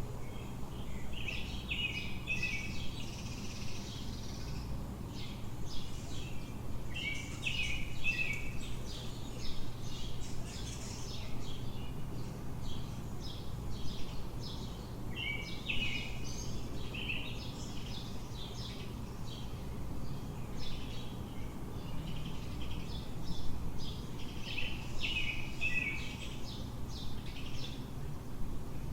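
Songbirds singing short chirping phrases that come back every several seconds, over a steady low city hum.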